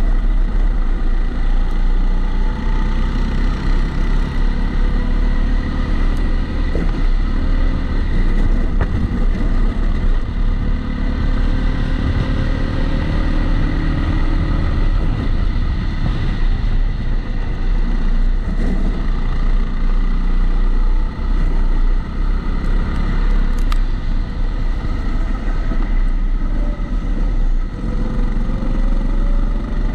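Kombikart Eco kart's motor heard onboard, its pitch rising and falling as the kart speeds up and slows through the laps. A steady high-pitched tone runs underneath, a regular background noise that the driver puts down to the camera sitting in its housing.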